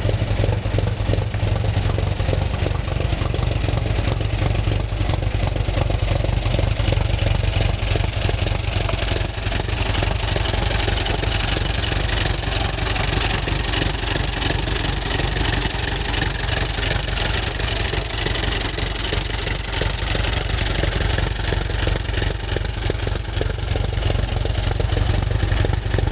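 Old car's engine idling steadily, running at an even speed with no revving.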